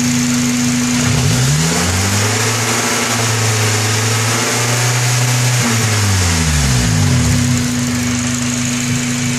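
Honda K24A2 inline-four engine revved up from idle about a second in, held at higher revs, then dropping back to idle near the end, with a loud clicking valvetrain noise that began after a minor KPro calibration change made with the engine running.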